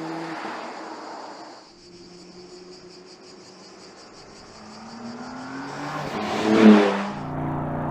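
Porsche Panamera 4S E-Hybrid Sport Turismo running on the road. Its engine note fades, then rises as the car comes closer and passes close by about six and a half seconds in, its pitch dropping as it goes. After that comes a steady engine drone.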